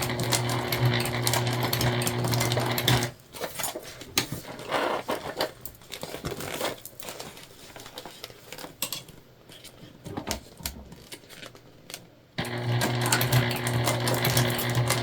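Domestic sewing machine stitching through jelly vinyl: a steady motor hum with rapid needle ticks. It stops about three seconds in, leaving a stretch of quieter scattered clicks and rustles, and starts stitching again near the end.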